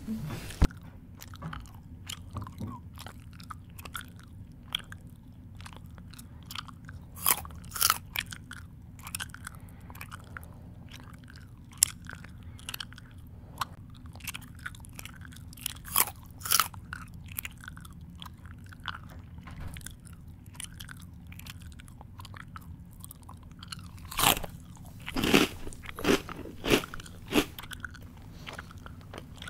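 A person chewing food close to the microphone: irregular crunches and wet smacks, with louder flurries of bites about a quarter of the way in, around the middle, and near the end.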